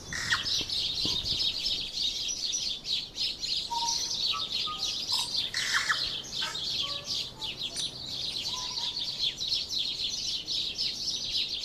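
Birds chirping in a dense, continuous chorus of rapid high notes, with a few short lower whistled notes mixed in.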